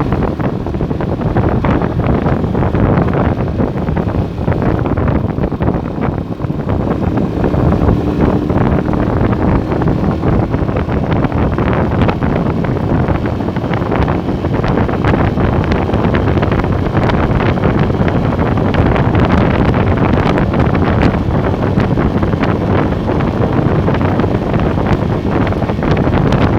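Wind rushing loudly over the microphone on a moving Motorstar Star X 125 motorcycle, a steady rumble with the ride's engine and road noise buried under it.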